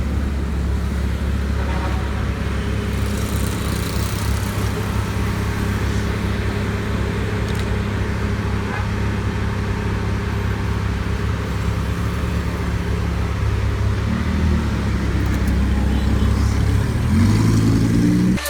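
Car engine idling steadily, then revving up near the end.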